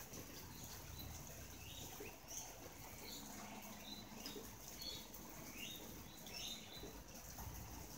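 Faint flapping of a wet galah's wings, with short falling bird chirps repeating every second or so.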